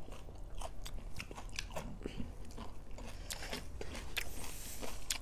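Close-up eating sounds: chewing and crunching mouthfuls of food, with many small, irregular mouth clicks.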